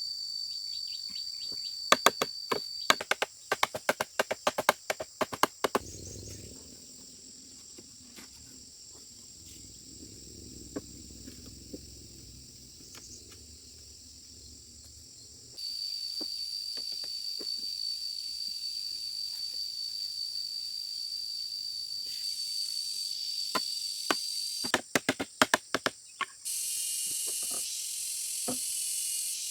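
A steady high-pitched insect drone, cutting out and back in, with two rapid runs of sharp knocks, a few seconds in and again near the end. A hiss comes in near the end.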